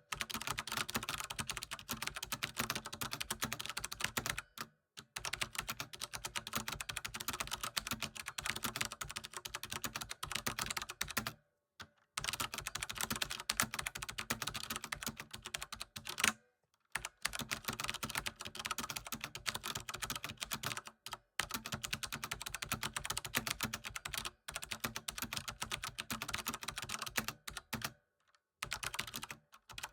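Typing on a computer keyboard: rapid, continuous keystrokes, broken by about five short pauses of under a second.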